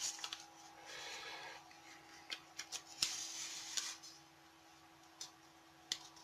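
Origami paper rustling and crinkling as it is folded and its creases are pressed down, with a few faint ticks; the handling quietens after about four seconds. A faint steady hum sits underneath.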